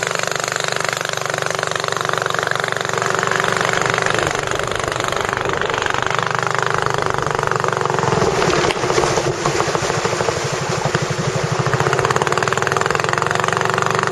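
Engine running steadily, turning into a rapid chugging pulse a little past halfway.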